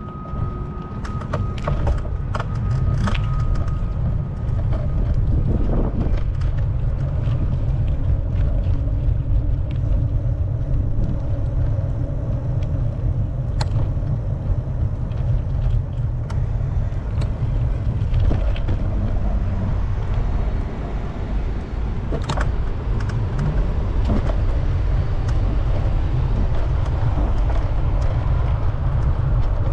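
Wind rumbling on the microphone of a moving bicycle, with scattered clicks and rattles. A faint steady whine is heard in the first few seconds.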